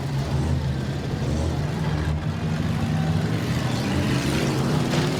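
Demolition derby car engines running together, a steady, dense engine sound.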